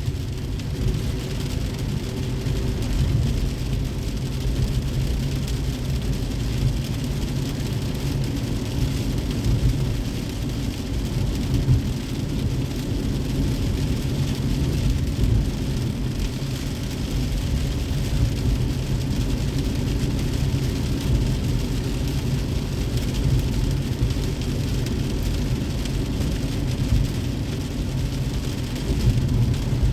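Car driving in the rain: a steady low rumble of road and tyre noise, with the even hiss of rain over it.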